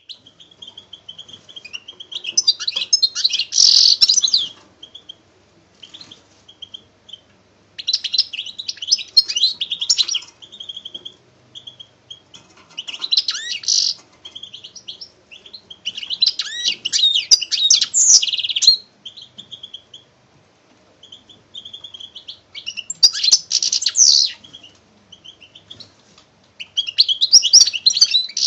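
A songbird singing in repeated phrases, about six in all. Each phrase is a burst of rapid high chirps and trills lasting two to three seconds, with single short high notes in the pauses between.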